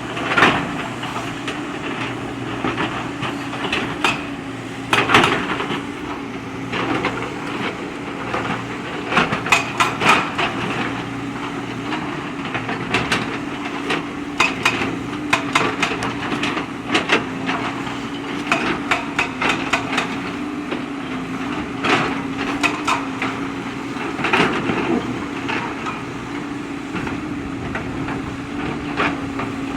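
JCB backhoe loader's diesel engine running steadily, with frequent irregular clanks and knocks of stones striking the steel bucket.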